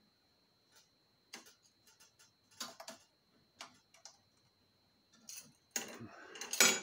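Scattered light clicks and taps of small compressor parts being handled at a workbench, then a louder rubbing scrape near the end.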